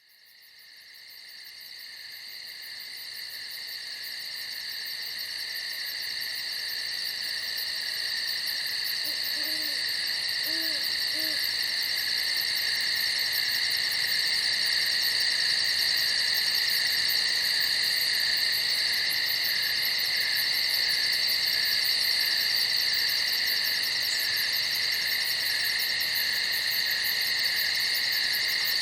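A dense, steady chorus of crickets singing at night, fading up from silence over the first several seconds. About ten seconds in there are three soft, low hoots.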